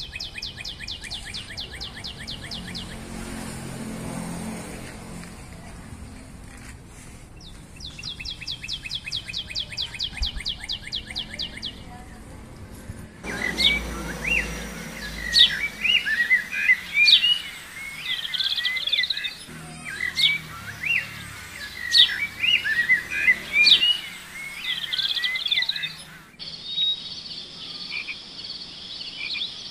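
Birds chirping and calling, in sections that change abruptly. A fast trill of rapidly repeated high notes is heard at the start and again around eight to twelve seconds in. Busy, varied chirps and whistles follow from about thirteen seconds, and a steady high buzz comes near the end.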